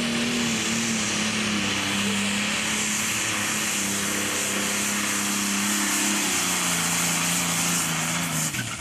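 Pro stock pulling tractor's turbocharged diesel engine at full throttle, hauling the weight-transfer sled. Its pitch sags in steps as the load builds, and the engine runs with a strong hissing rush on top. Near the end the pitch drops sharply and the sound falls away as the throttle comes off at the end of the pull.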